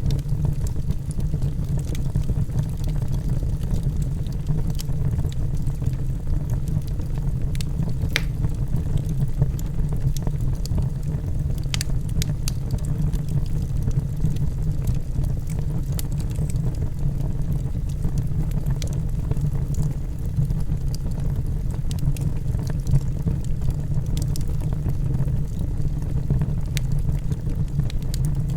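Logs burning in a fireplace: a steady low rumble of the fire with scattered sharp crackles and pops, a few of them louder than the rest.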